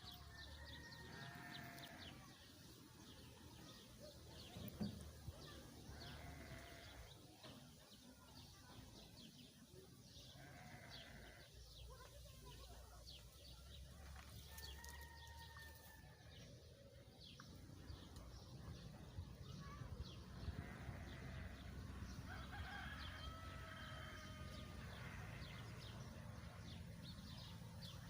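Faint bleating of farm livestock: several drawn-out calls spaced out, with a few more together later on. Faint short high ticks sound throughout.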